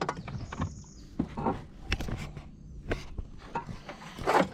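Irregular knocks and clicks of fishing gear being handled in a small fishing boat.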